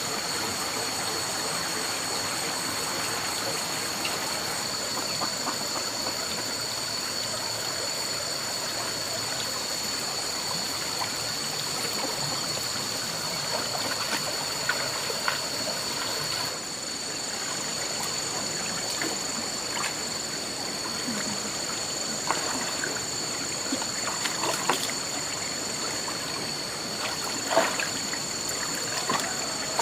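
Running water with a steady rushing sound, over two steady high-pitched tones, with a few light knocks in the second half.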